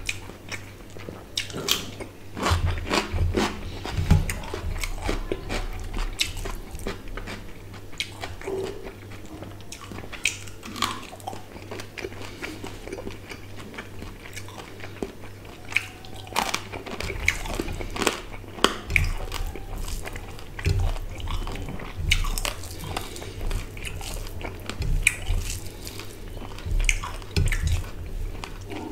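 Close-miked chewing and biting of a person eating fish curry, spinach and rice by hand, with crisp crunching bites of a raw cucumber slice among the irregular mouth clicks and chews.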